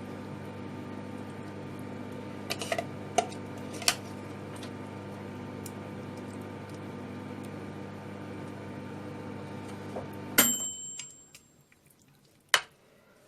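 A small kitchen appliance's electric motor hums steadily, then shuts off abruptly with a sharp click and a brief high ring about ten seconds in. A single sharp knock follows near the end.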